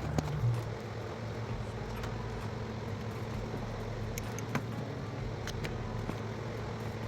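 2008 Dodge Grand Caravan's V6 engine idling, a steady low hum, with a few light clicks of parts being handled. The van has a rough idle and misfire.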